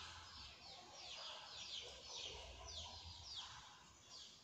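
Small birds chirping faintly in the background: a quick run of short chirps, each sliding down in pitch, about two or three a second.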